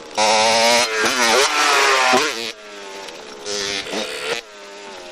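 Motorcycle engine revving, its pitch climbing and dropping sharply through quick rev changes; loud for the first two and a half seconds, then quieter, with another short burst of revs late on.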